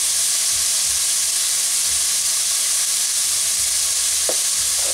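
Grated radish (mooli) frying with onion and tomato in hot oil in a kadai, sizzling steadily.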